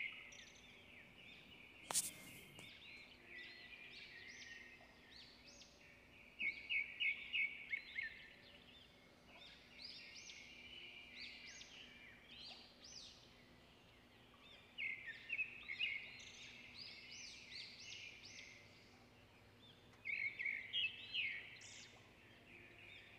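Faint chirping of small birds, coming in several bursts of quick chirps, with a single sharp click about two seconds in.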